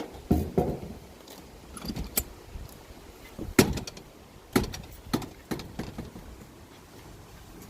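Electrical plug and adapter being handled: a string of sharp clicks, knocks and rattles, about a dozen in all, the loudest near the start and about three and a half and four and a half seconds in.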